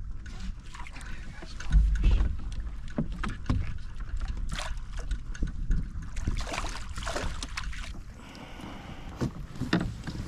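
Knocks, bumps and water splashing on a fishing kayak as gear and paddle are handled, with a loud thump about two seconds in and wind on the microphone.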